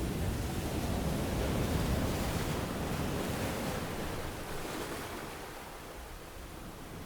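Ocean surf breaking and washing up a beach. It swells to its loudest in the first couple of seconds, then eases off after about four seconds.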